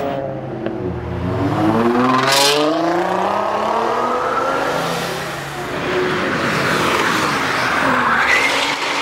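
Nissan GT-R's twin-turbo V6 accelerating hard, its pitch climbing through the revs, with a short sharp hiss about two and a half seconds in. It eases off briefly near the middle, then climbs again.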